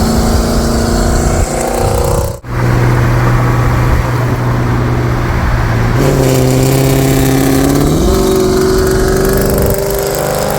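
Cat-deleted, straight-piped 5.7-litre Hemi V8 of a Dodge Charger R/T running loud, its exhaust note holding steady pitches that step up twice, about six and eight seconds in. The sound breaks off briefly about two and a half seconds in.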